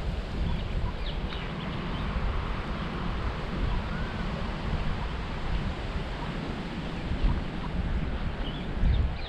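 Wind buffeting the microphone with a steady low rumble, with a few short, faint bird chirps over it, mostly in the first couple of seconds and again near the end.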